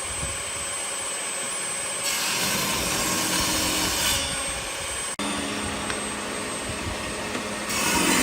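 Electric power tool running and working wood, a steady motor whine over the noise of the cutting. The sound shifts in pitch and loudness every couple of seconds and breaks off abruptly about five seconds in.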